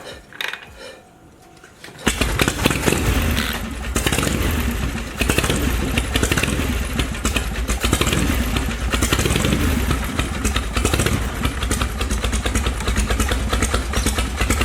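Harley-Davidson Shovelhead air-cooled V-twin engine starting about two seconds in after a few short mechanical knocks, then running loudly with a fast, even pulse.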